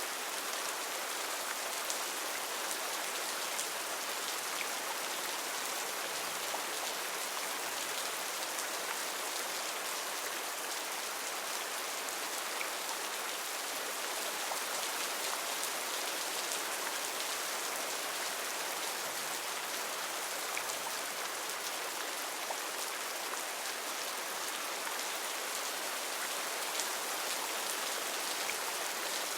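Heavy rain falling steadily on foliage, a dense even hiss with scattered sharp drips of single drops.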